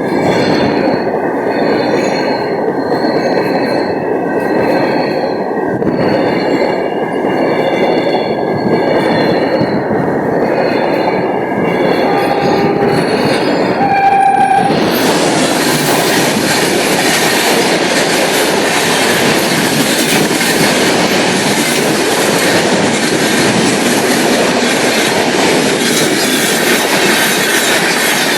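Freight train of tank wagons rolling past, its wheels clattering steadily, with a wavering high squeal in the first half. Two brief tones sound about halfway through, and after that the rolling turns into a brighter, hissing rush.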